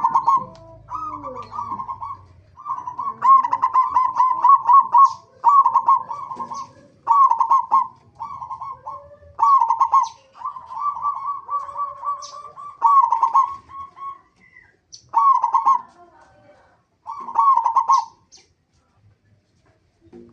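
Zebra dove (perkutut) cooing: short phrases of rapid, staccato coos repeated over and over with brief pauses between them. A loud low thump sounds right at the start.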